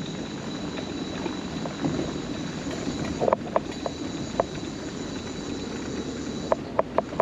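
Mobility scooter rolling along a wooden boardwalk: a steady rolling rumble, with its wheels knocking over the plank joints in clusters of sharp clacks.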